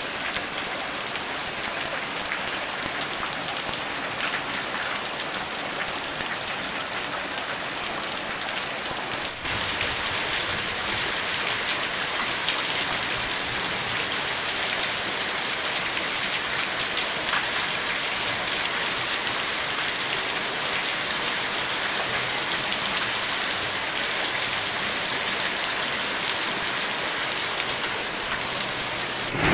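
Very heavy rain pouring down and drumming on surfaces as a steady, dense hiss, a little louder from about nine seconds in.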